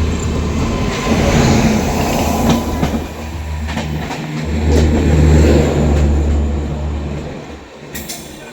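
Express passenger train running at speed: a loud low rumble of the carriage with scattered clacks of the wheels over rail joints, swelling twice and easing near the end.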